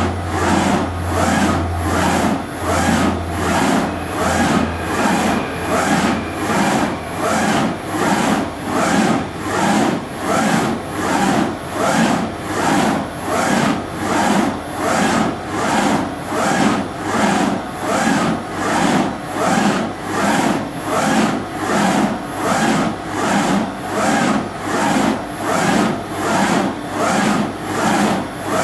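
BRAND 850 NE CNC surface grinder running, with a steady machine noise that swells and fades in a regular rhythm about three times every two seconds. A low hum underneath dies away in the first few seconds.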